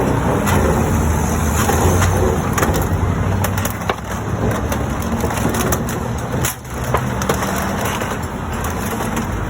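Tow truck's engine running steadily under load, with scattered sharp cracks and crunches of damaged car body as the wrecked cars are pulled apart.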